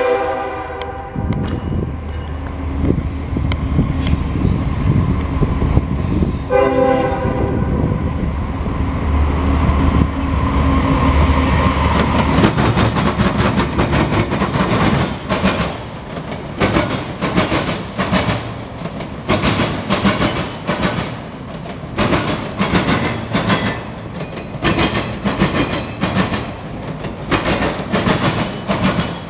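Norfolk Southern freight train passing: a short air-horn blast about seven seconds in, the diesel locomotives running by with a heavy low rumble, then autorack cars rolling past with a steady, rhythmic clickety-clack of wheels over the rail joints.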